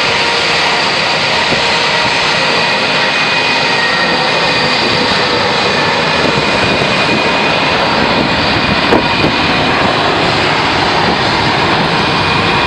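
Airliner's engines running loud and steady: a broad rush of noise with a thin, steady whine on top, neither building nor fading.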